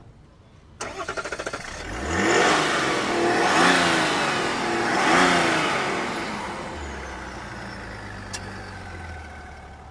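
Chevrolet Tahoe's 3.0-litre Duramax inline-six turbodiesel starting: the starter cranks for about a second, the engine catches and its speed rises and falls a few times, then it settles into a steady idle about seven seconds in.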